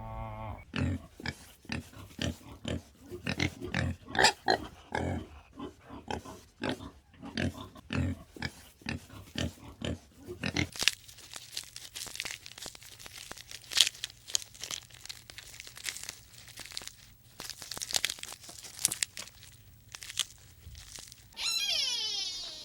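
Farm animal making many quick, short grunts for about ten seconds, then a sudden switch to dry crunching and rustling. A drawn-out animal call starts near the end.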